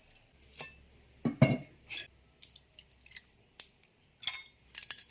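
Irregular wet squishes and light knocks of pieces of pork belly being mixed by hand in a bowl of seasoning sauce, with the loudest squelch about a second and a half in.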